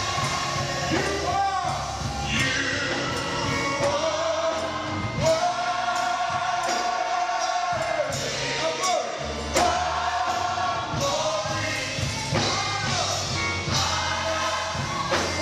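Gospel choir singing held notes over a steady instrumental accompaniment with a bass line.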